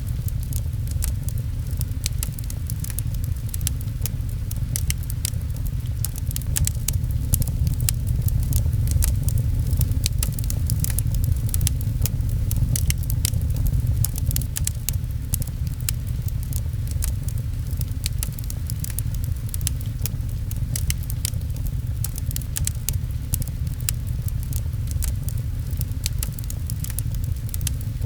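Fireplace crackling with many small, sharp, irregular pops over a steady low rumble, with rain pattering on a window.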